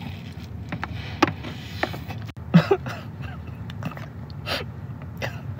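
Chewing and mouth sounds of someone eating a crispy fried chicken tender dipped in sauce: scattered wet smacks and crunches. Under them runs a steady low hum, and there is one brief voice sound about two and a half seconds in.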